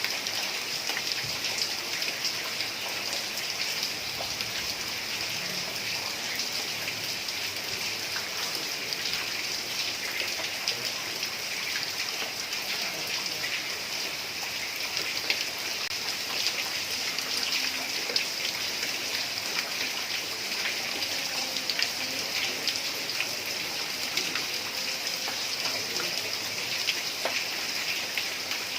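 Heavy rain falling on a tiled roof: a steady hiss with many small, sharp drop ticks.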